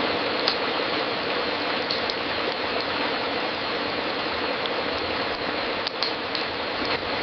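Fireplace crackling: a steady, dense crackle with sharper pops scattered through it, several coming close together in the second half.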